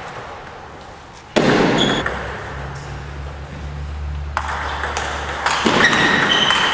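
Table tennis ball knocking against bats and the table, with a sudden loud sound about a second and a half in and a busier stretch of sharp knocks near the end.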